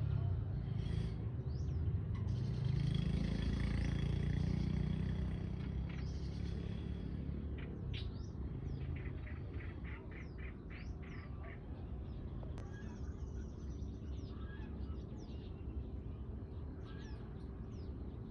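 Small birds chirping with short falling notes, one giving a quick run of repeated notes around the middle. In the first few seconds a motor engine rises in pitch and then fades.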